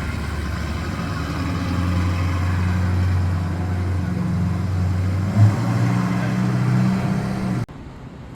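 Car engine running steadily at a low idle, its pitch stepping up slightly partway through, with a short bump about five seconds in; the sound cuts off suddenly near the end.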